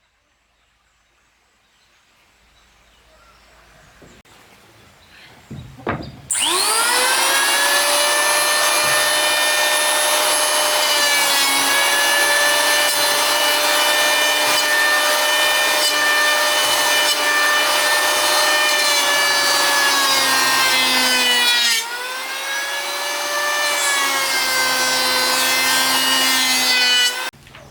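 Electric power saw spinning up with a rising whine, then running steadily as it cuts wood. Its speed dips briefly about two-thirds of the way through and picks up again, and it stops near the end.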